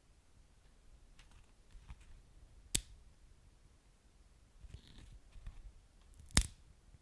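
Wood fire crackling softly over a low rumble, with two sharp pops about three and a half seconds apart, the second the louder.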